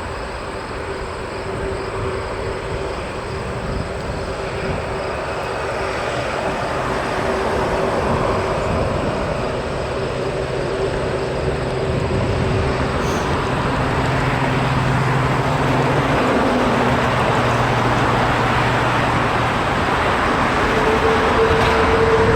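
Jet airliner engines running, their noise growing steadily louder, with a few held engine tones that shift pitch partway through.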